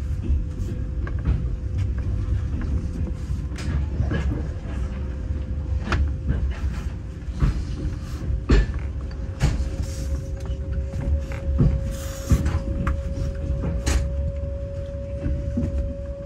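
Passenger train carriage in motion, heard from inside: a low rumble of the wheels on the track with irregular clicks and knocks as they pass over rail joints, and a steady hum that rises slightly in pitch about halfway through.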